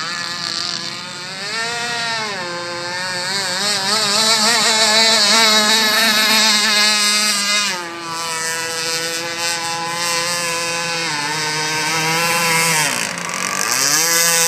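Radio-controlled model boat's motor running at speed, its pitch wavering quickly up and down for several seconds, then holding steady, then dropping low for a moment near the end before rising again.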